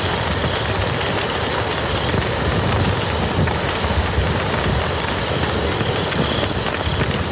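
Campfire crackling over the steady rush of a river, with a faint high chirp recurring every second or so.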